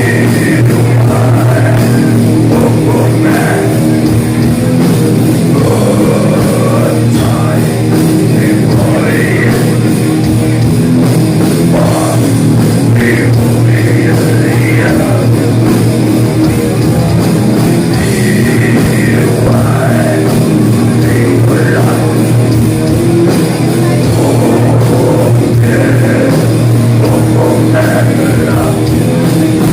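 Heavy metal band playing live at full volume: distorted guitars and drum kit, with a singer's voice coming in and out over them.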